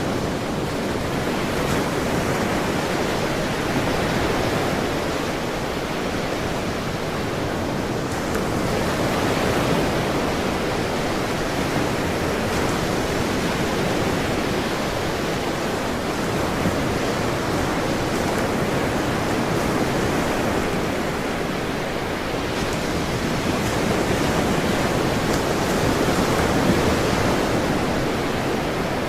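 Ocean surf: a steady wash of waves breaking, with slow gentle swells in loudness.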